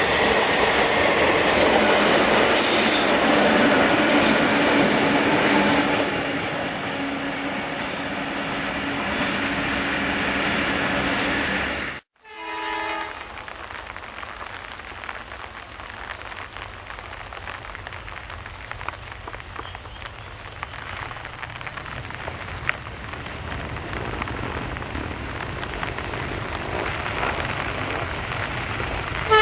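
Indian Railways train running by loudly, with steady horn-like tones over the rumble for the first dozen seconds. After an abrupt cut, a brief train horn blast, then a quieter steady rumble and hiss, with another horn starting at the very end.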